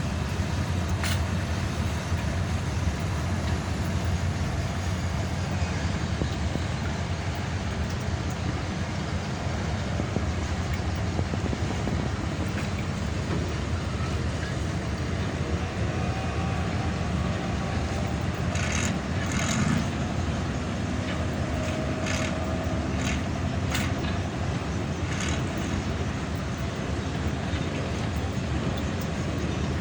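Steady low engine rumble, with a few short clicks or knocks about two-thirds of the way through.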